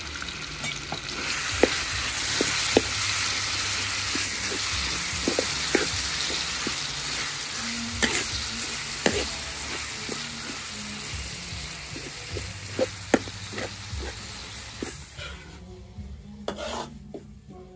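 Food deep-frying in hot oil: a steady loud sizzle that swells about a second in and dies down near the end. Scattered sharp clicks of a utensil striking the pan are heard as the food is stirred.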